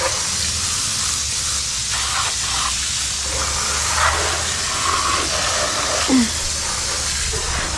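Water spraying steadily onto a dirt bike to rinse off mud and dirt, a continuous hiss with a steady low hum underneath.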